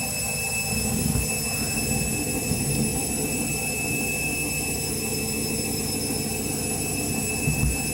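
Candy washing machine running at the end of its main wash: a steady motor hum and low drum rumble with a constant whine, holding level throughout.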